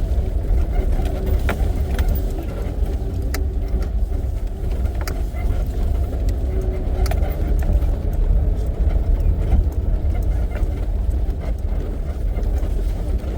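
Safari jeep driving along a dirt track, a steady engine and road rumble with scattered rattles and knocks from the vehicle's body.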